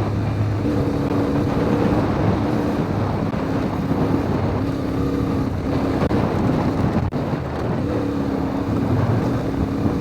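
CFMoto 450MT's parallel-twin engine running hard on a dirt road, its pitch shifting in steps with throttle and gear changes, with steady wind noise on the microphone.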